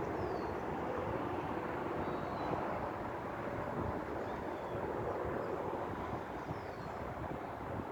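Steady outdoor hum of distant engine noise with wind on the microphone, and a few short, high falling chirps.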